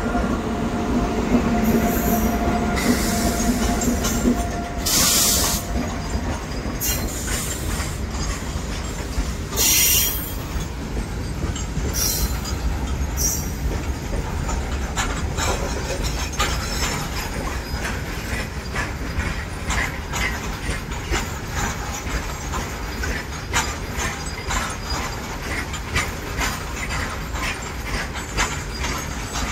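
A freight train passing close at speed. Electric locomotives give a steady hum for the first few seconds, then a long rake of steel open freight wagons rolls by with a dense clatter of wheels over rail joints. There are a few short high-pitched bursts in the first half.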